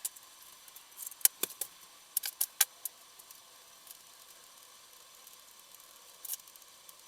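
Scattered light clicks and clinks of small metal tools or parts being handled: two about a second in, a quick cluster of four a second later, and one fainter click near the end.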